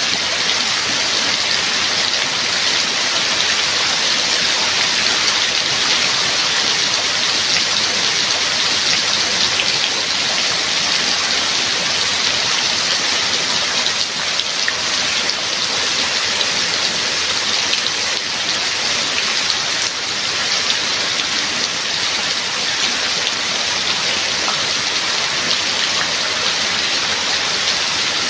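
Steady heavy rain falling, an even hiss with many fine drop patters and no pauses.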